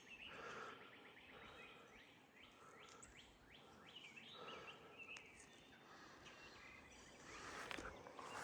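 Faint birdsong: a run of short, downward-sliding chirping notes repeated many times, over a soft outdoor background hiss.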